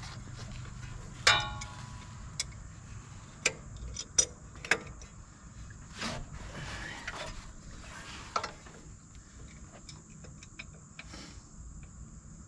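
Scattered metallic clinks and clicks of hand tools being worked on an old truck engine that is being turned over by hand. The loudest is a ringing clink about a second in; the rest are irregular knocks and ticks over a low hum.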